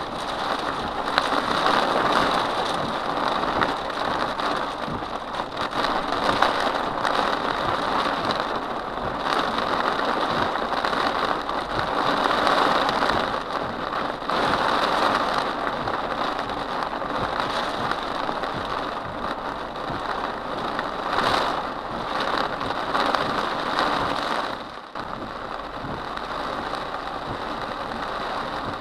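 Heavy rain pelting a moving car's roof and windshield, heard from inside the cabin over the vehicle's road noise. The rain noise drops suddenly a few seconds before the end.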